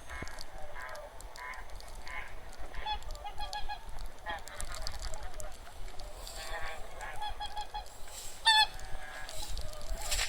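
A flock of wild geese honking: many short, overlapping calls, some in quick runs of three or four, with one louder call a little past eight seconds.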